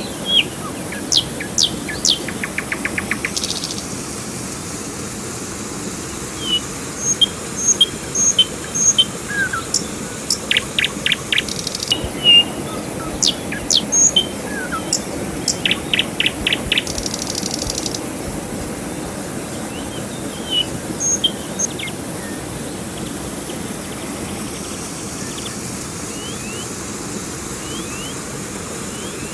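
Steady rush of river water with songbirds chirping and whistling over it, including several quick trills; the bird calls are busiest in the first two-thirds and die away after about 22 seconds.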